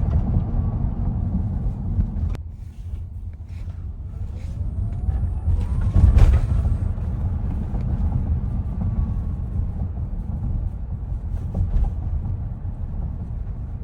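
Tesla Model X accelerating: a deep tyre and road rumble that drops off abruptly about two seconds in. A faint electric-motor whine then rises in pitch as the rumble builds to its loudest about six seconds in.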